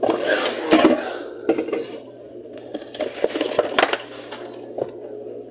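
Aluminium soda cans being handled and set down on refrigerator shelves, a run of irregular clinks, knocks and rustles over a faint steady low hum.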